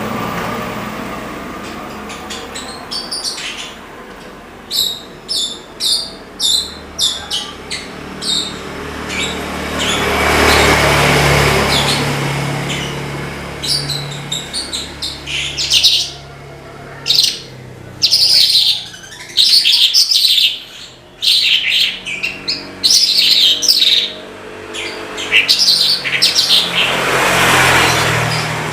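Branjangan (Horsfield's bush lark) in full song: first a string of short, sharp high chirps, then after a pause a fast, dense run of song phrases. A rising and falling swell of noise around ten seconds in and again near the end.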